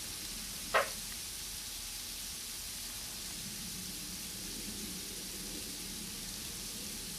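Icy snow falling and hitting the ground, a steady fine hiss like sizzling. A brief sharp sound about a second in.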